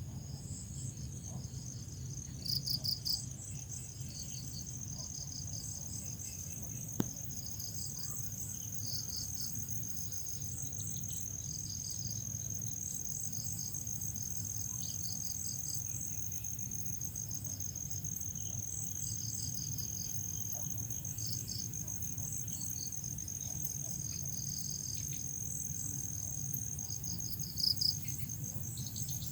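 Crickets chirping: one steady, unbroken high trill under a chorus of rhythmic pulsed chirps. A louder burst of chirps comes about three seconds in and again near the end. There is a single sharp click about seven seconds in.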